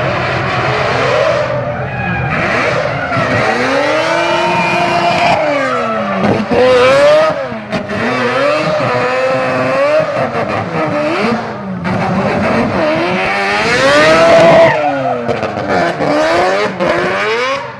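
Competition car engine revving hard, its pitch rising and falling again and again, with tyres squealing.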